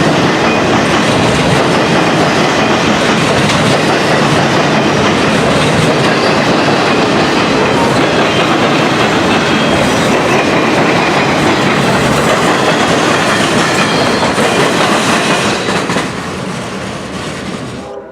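Loaded freight cars rolling past at speed, wheels clattering over the rail joints and crossing diamonds. The noise eases near the end as the train moves away, then cuts off.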